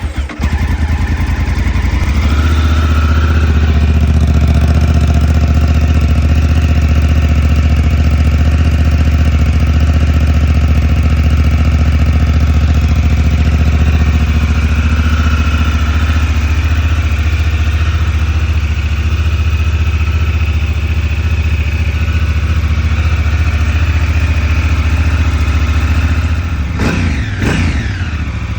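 Honda Africa Twin's 998 cc parallel-twin engine idling steadily through a LeoVince LV One aftermarket exhaust, with a few quick throttle blips near the end.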